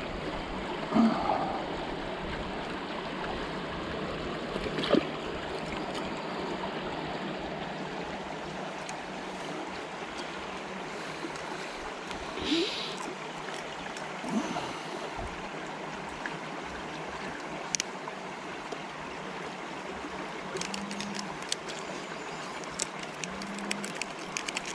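Small river water flowing steadily, with a few brief knocks now and then.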